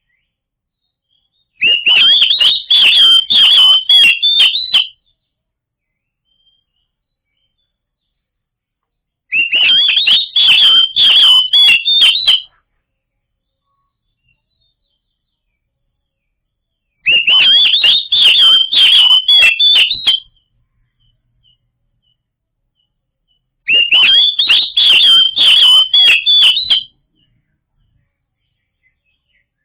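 Oriental magpie-robin (kacer) singing: four loud bursts of rapid, varied whistled notes, each about three seconds long, separated by several seconds of silence.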